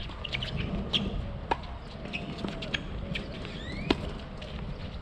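Birds chirping and whistling over a steady low rumble, with two sharp knocks, about a second and a half in and again near the end, the second the loudest sound.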